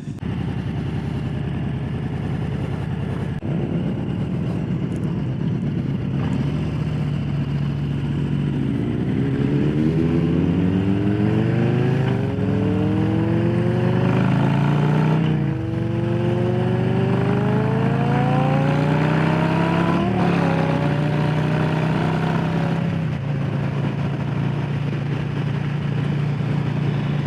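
Harley-Davidson Low Rider S's Milwaukee-Eight V-twin running under way, then accelerating with a rising pitch from about eight seconds in. It shifts up with a sudden drop about halfway through and again a few seconds later, then settles to a steady cruise.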